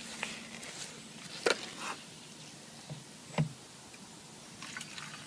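A few light knocks and clicks over a faint hiss, the sharpest about one and a half seconds in and again past three seconds: handling of a fuel can and tank while petrol is poured into a small go-kart's fuel tank.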